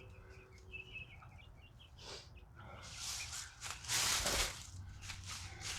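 Young Rhode Island Red chickens chirping softly in the first second or so. This is followed by a louder stretch of noise between about three and four and a half seconds in.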